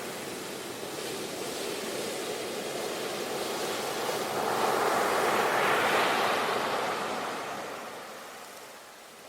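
Ocean waves breaking on a beach: the surf swells to its loudest about halfway through, then washes back and fades away near the end.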